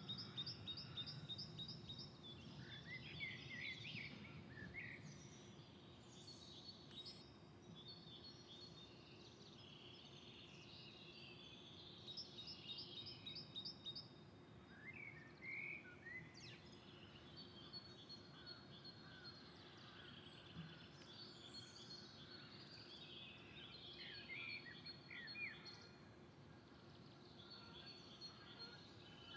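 Faint outdoor stillness with songbirds singing: quick repeated trills and short chirps come and go, over a low steady hum.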